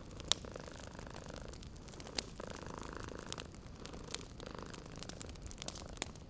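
A cat purring in swells about a second long, with the sharp pops and crackles of a wood fire burning in a fireplace.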